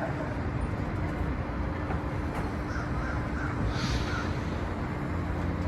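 Birds of a flock calling: a run of about six short, crow-like calls around the middle, over steady low background noise.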